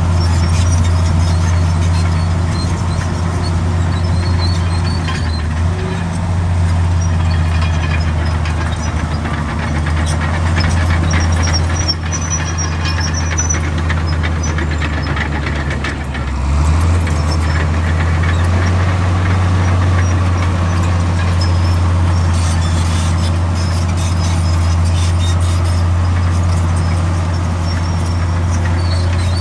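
Komatsu D65 bulldozer's diesel engine running steadily under load. Its note shifts twice, about five and sixteen seconds in, with faint high squeaks over the engine.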